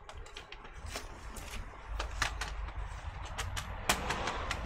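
Plastic bottom case of an HP 14-BW laptop being fitted back on: a scattered series of light clicks and snaps as the cover is handled and pressed into place.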